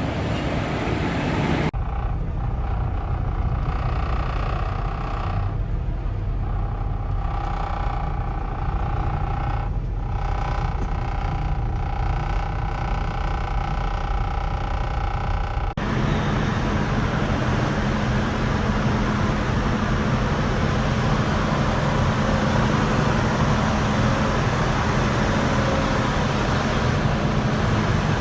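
Semi-truck driving on the highway: steady engine and road noise, changing abruptly about two seconds in and again past the halfway mark as the footage cuts between stretches of the drive.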